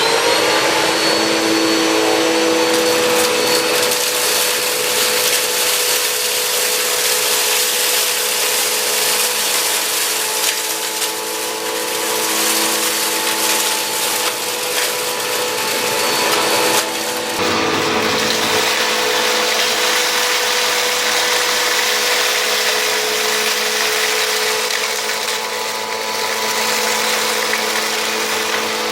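Swivel bagless upright vacuum cleaner running on a hard floor with its always-on brush roll spinning, a steady motor whine carrying several steady tones. The whine settles to speed in the first moment, and the sound shifts abruptly about 17 seconds in.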